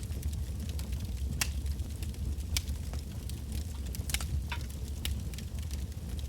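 Wood bonfire burning: a steady low rumble of flame with sharp crackles and pops from the burning firewood, scattered irregularly, with a quick cluster of pops about four seconds in.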